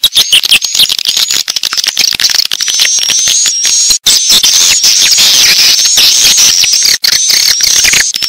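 Swiftlet lure call: a loud, dense chorus of twittering chirps and rapid clicks, with short repeated rising notes from about three seconds in. It is the kind of call played in swiftlet houses to draw swiftlets in to roost and nest.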